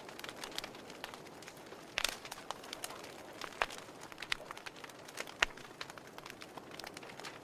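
Wood fire crackling: irregular sharp pops and snaps, a few louder ones about two seconds and five seconds in, over a soft steady hiss.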